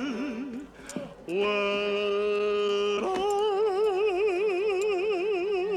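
A man singing wordless held notes in a mock-operatic style: a short wavering note, a brief pause, a long steady note, then a higher note with wide, exaggerated vibrato held for about three seconds.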